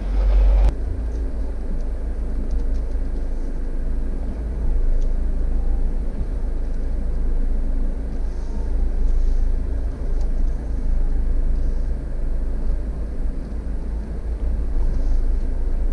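Jeep engine running at low revs with a steady low rumble as the vehicle crawls slowly through a rocky switchback, with a brief louder rush in the first second.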